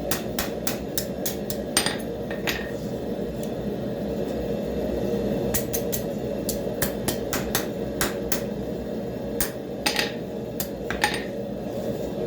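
Blacksmith's hammer striking a hot railroad spike on an anvil, in runs of quick blows about three a second with short pauses between runs; some blows ring briefly. A steady low noise runs underneath.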